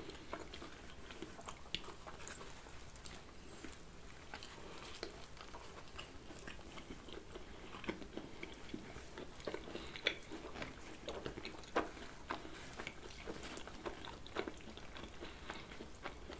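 Two people chewing pizza close to the microphone: a steady run of small mouth clicks and bites, more frequent in the second half.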